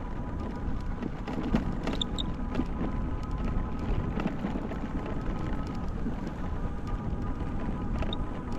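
Folding e-bike riding along a dirt fire lane: a steady low rumble of tyres and wind on the microphone, with a faint steady whine from the motor and small scattered clicks from the track.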